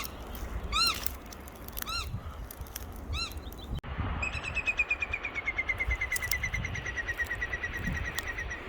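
A bird defending its nest calls at an intruder: single arched call notes about once a second, then, after an abrupt break, a long, fast run of repeated notes that slowly falls in pitch. Wind rumbles on the microphone underneath.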